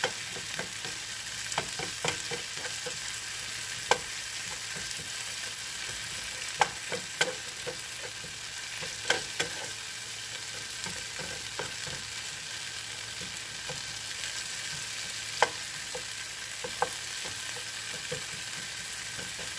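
Shrimp fry with onion, tomato and pepper sizzling steadily in a nonstick frying pan as a plastic spoon stirs it. Irregular sharp taps and scrapes of the spoon against the pan stand out above the steady hiss.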